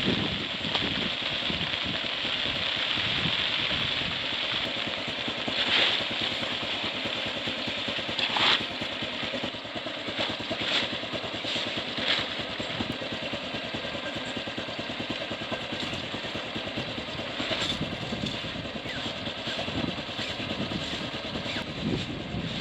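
Steady heavy rain and gusting storm wind, with a few brief louder swells as gusts hit.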